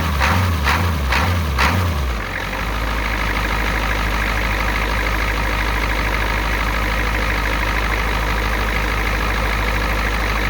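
1987 Ford F350's 7.3-litre diesel V8 revved in about three short throttle blips, then settling into a steady idle.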